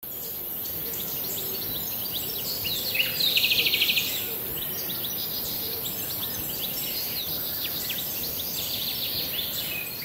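Budgerigar chirping and chattering in short notes, with a rapid buzzy trill about three seconds in that is the loudest part, over a steady background hiss.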